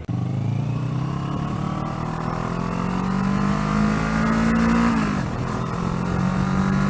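Kawasaki ER-6n parallel-twin motorcycle engine accelerating under way, its note rising steadily, then dropping sharply about five seconds in at an upshift before climbing again.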